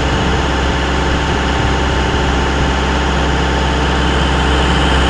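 Heavy diesel engine of a Cat 259 compact track loader idling steadily, an even low hum with no change in speed.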